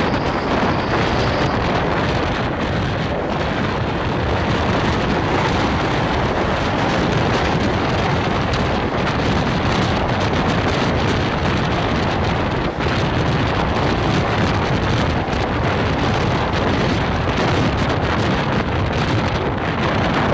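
Steady rush of wind on the microphone over the running noise of a Mumbai suburban electric train moving at speed along the track.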